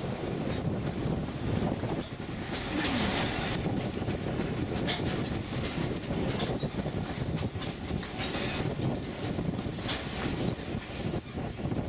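The St. Kitts Scenic Railway's narrow-gauge former sugar-cane train running along the track: a steady rumble and clatter of wheels on rail, with a few brief high-pitched passages.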